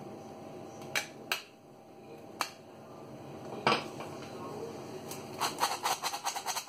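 A sieve knocked and tapped against a mixing bowl while sifting flour and cocoa powder: a few separate knocks, then a quick run of light taps near the end.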